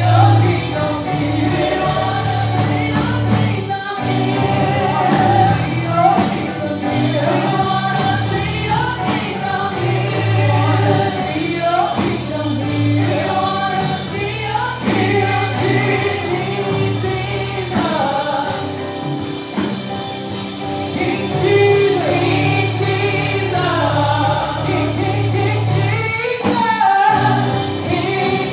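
Gospel choir singing with a live band: steady bass and drums under the voices.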